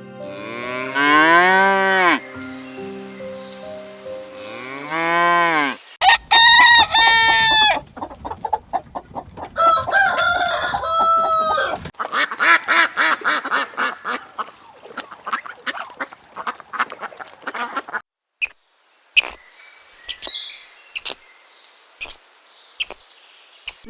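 Poultry calling in a string of short separate clips that cut about every six seconds. First come drawn-out calls that rise and fall in pitch, then rapid pulsed calls, then a few scattered short sounds.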